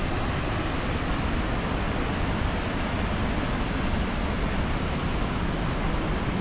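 Steady, loud roar of the Iguazu waterfalls: an even rush of falling water with no breaks or changes.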